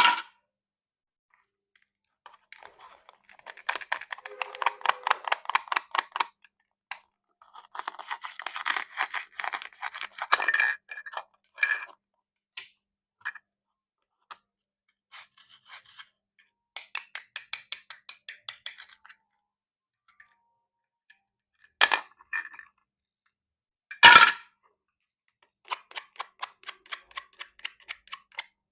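Plastic toy fruit being cut: several runs of rapid crackling clicks, each a second or a few seconds long, with a few sharp single clacks between them.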